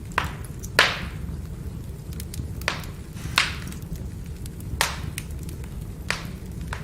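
Firewood burning: sharp pops and crackles, about seven loud ones and many faint ticks between them, over a steady low rumble of the fire.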